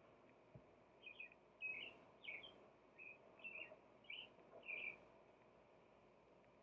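Faint songbird singing: a quick run of short chirping notes lasting about four seconds, over near silence.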